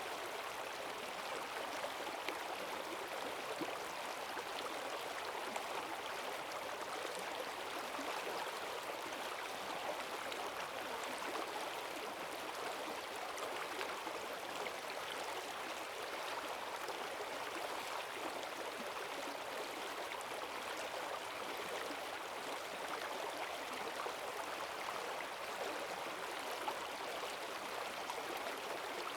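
Forest stream swollen by heavy rain, rushing strongly over rocks in a steady, even splashing rush.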